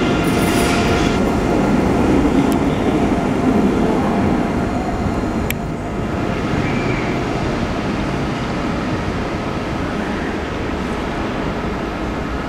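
A train running past on the rails: a steady loud rumble of wheels on track, with a thin steady whine early on that fades. There is a single sharp click about five and a half seconds in, and the sound eases a little after it.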